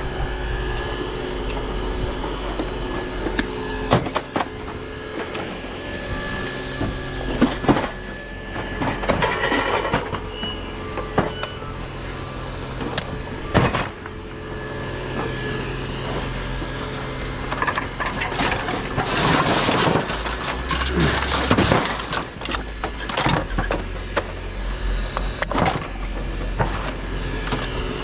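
Knocks, clanks and scraping of scrap being handled and broken apart, over a steady low hum; the loudest stretch of scraping comes about two-thirds of the way in.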